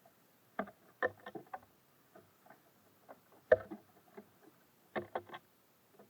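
Irregular taps and knocks of small birds landing and pecking at a bird feeder, the loudest about three and a half seconds in.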